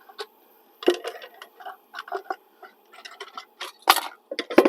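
Measuring cups clicking and clattering in irregular short knocks as they are handled and sorted, with the loudest knocks about four seconds in and just before the end.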